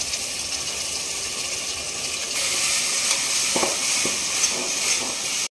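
Ginger-garlic paste sizzling as it hits hot oil and fried onions in an aluminium pot, stirred with a metal spatula; a steady hiss that grows louder about two seconds in and cuts off suddenly near the end.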